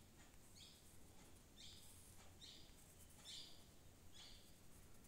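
Near silence with a faint bird chirping about once a second, each chirp a short high note sliding down, over a low steady hum.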